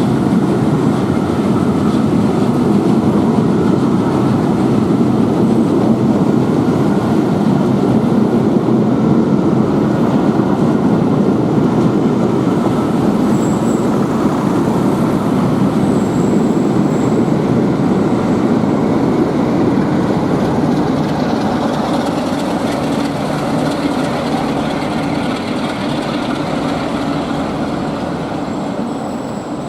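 Passenger train rolling along the rails with a loud, steady rumble and brief high wheel squeals, slowly fading near the end.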